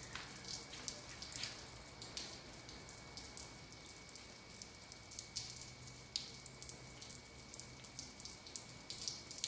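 Rain falling, with scattered drops tapping irregularly on a hard surface over a faint steady hiss.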